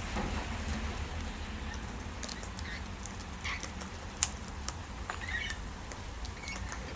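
Birds feeding at a seed tray: irregular sharp taps and clicks of beaks and feet on the feeding surface, with a couple of short soft chirps.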